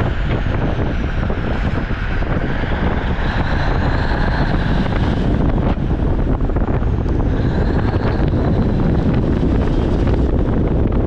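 Heavy truck under way: a steady, loud engine-and-road rumble with some wind noise, and faint tones that slowly rise and fall.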